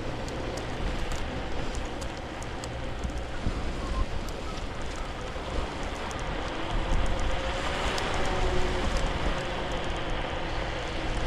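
Riding an electric scooter: wind rushing over the microphone and the small wheels rumbling over the ground, with a faint whine and scattered small rattles and clicks.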